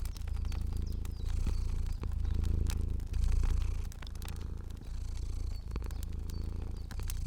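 Cat purring steadily, swelling and easing with each breath, with the small pops and clicks of a crackling fire throughout.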